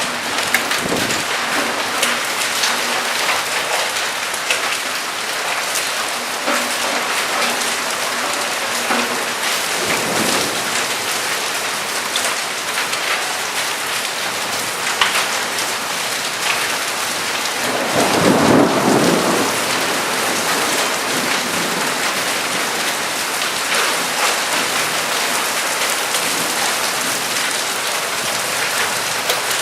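Heavy rain falling steadily in a thunderstorm. A faint rumble of thunder comes about a third of the way through, and a louder clap of thunder lasting a second or two comes about two-thirds of the way through.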